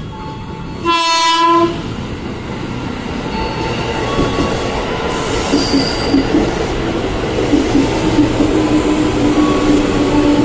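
Electric commuter train (KRL) sounds one short horn blast about a second in, then runs along the platform with steadily building wheel-on-rail noise and a steady low whine that sets in about halfway through.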